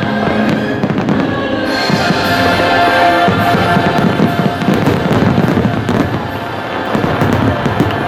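Fireworks display finale: many aerial shells bursting and popping in quick succession, over loud show music.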